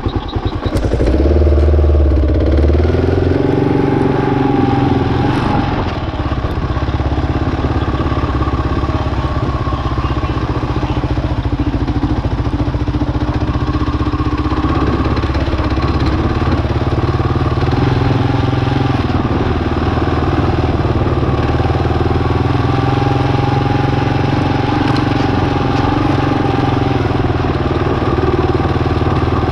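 Single-cylinder dual-sport motorcycle engine running steadily, a little louder for the first couple of seconds.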